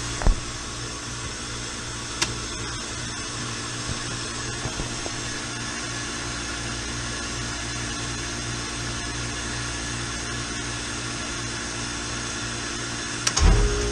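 Steady hum of running machinery, with a sharp click just after the start, another about two seconds in, and a louder knock near the end.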